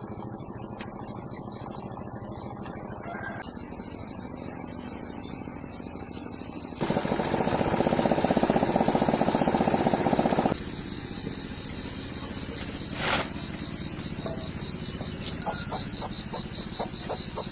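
Steady high insect trilling. About seven seconds in, a loud, rapidly pulsing engine-like noise cuts in and stops abruptly some four seconds later. A single sharp click follows, and a run of short chirps comes near the end.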